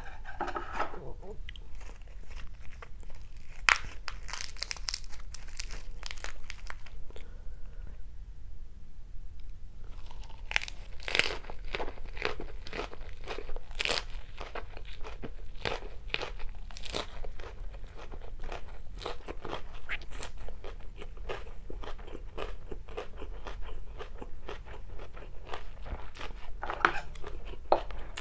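Close-miked crunching and chewing of a fresh lettuce-leaf wrap filled with stir-fried rice vermicelli and fried tofu. There is a short run of crunches a few seconds in, then a pause, then steady crisp crunching from about ten seconds in.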